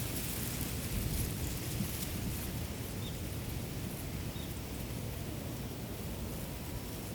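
Wind blowing across a field of ripe rice, a steady rustling hiss over a low rumble of wind against the microphone. Two faint short bird chirps come about three and four seconds in.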